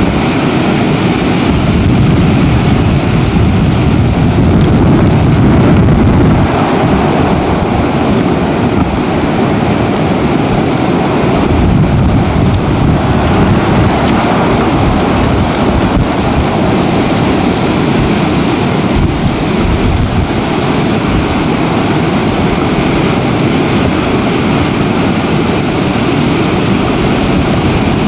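Very strong storm wind buffeting the outdoor nest camera's microphone: a loud, continuous rushing noise, heaviest in the low end, swelling slightly about five seconds in.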